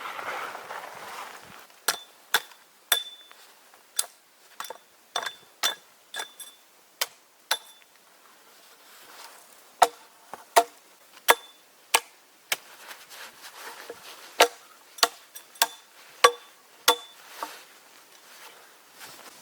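Chopping with a metal-headed hand tool: a run of sharp blows, many with a short ringing note. The blows come in two spells of about a dozen each, with a pause of a couple of seconds between them.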